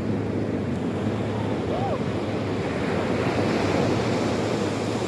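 Sea waves washing onto the shore, with wind buffeting the microphone; a wave surges in a little past the middle.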